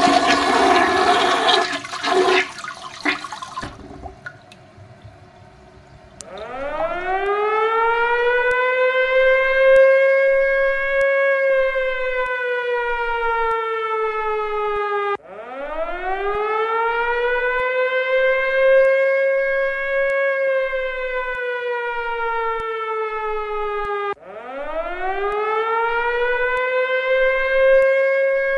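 A toilet flushing for the first few seconds. After a short lull, an air-raid siren winds up to a wail and slowly sinks, three times, each cycle about nine seconds long and cut off abruptly as the next begins.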